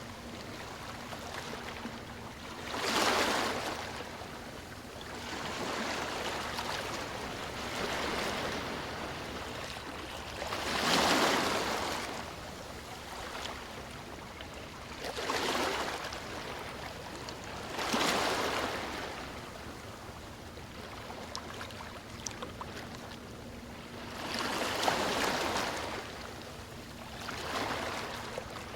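Sea waves washing onto a beach, each wave swelling and fading every few seconds over a steady hiss of surf, with the strongest waves about three and eleven seconds in.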